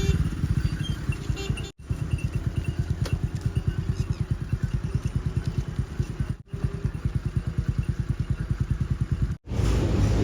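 Heavy diesel engine of a working machine running with a steady, rapid chugging beat, cut off abruptly for an instant three times.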